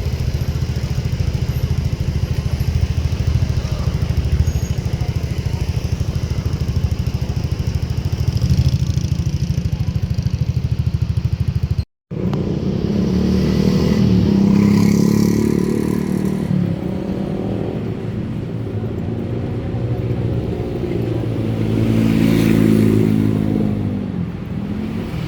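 A motor engine running steadily. About halfway through the sound cuts out for a moment, then an engine's pitch rises and falls twice as it speeds up and slows down.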